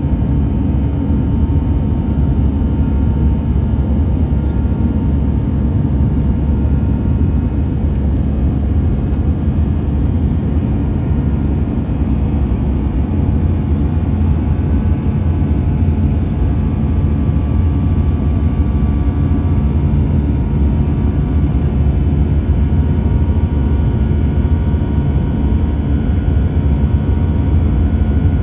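Airbus A320 jet engines running, a loud steady low rumble with several held whining tones over it that do not change.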